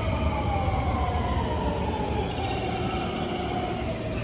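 Electric train at a station platform: a whine of several tones falling slowly in pitch over a steady low rumble, as a train slows.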